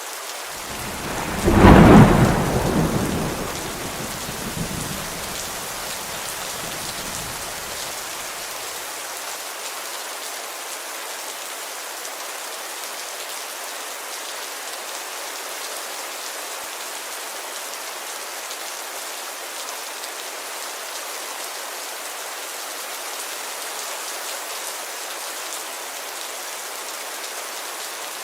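Steady rain falling on a window, with one loud thunderclap about two seconds in that rumbles away over the following several seconds.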